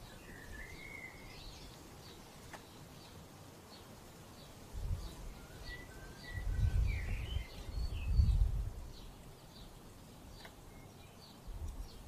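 Birds singing outdoors: a short warbling phrase at the start and more warbling through the middle, over short high chirps repeating about twice a second. Bursts of low rumble in the middle are the loudest sound.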